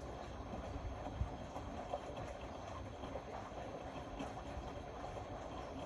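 Indesit Innex BWE 91496X front-loading washing machine running a wash, with a steady low rumble from the turning drum and irregular knocks from the load, two sharper thuds about one and two seconds in.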